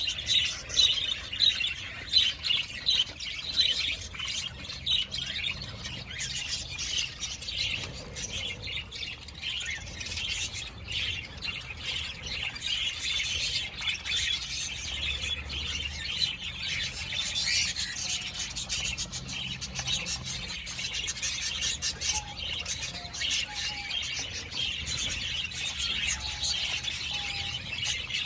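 A flock of parakeets and cockatiels chirping and chattering continuously in an aviary, many birds calling over one another, a little louder in the first few seconds.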